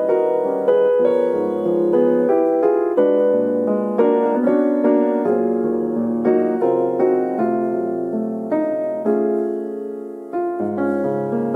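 Piano music: a steady stream of struck notes, each fading, a gentle melody over chords.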